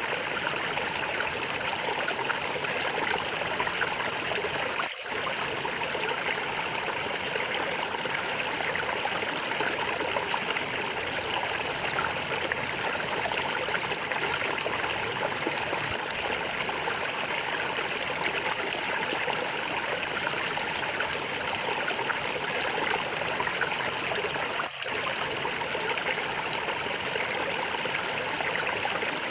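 Stream water flowing and gurgling steadily, with two momentary dropouts in the sound.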